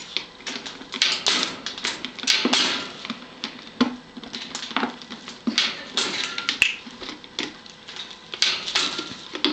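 Blue-and-gold macaw making an irregular run of sharp clicks and short rasping clacks, about two a second.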